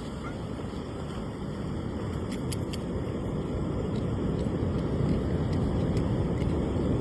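Steady rushing noise of wind and surf at a beach, slowly growing louder, with a few faint clicks about two and a half seconds in.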